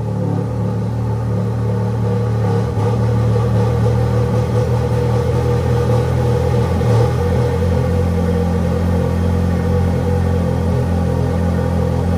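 Ferrari F430's V8 engine idling steadily just after a cold start.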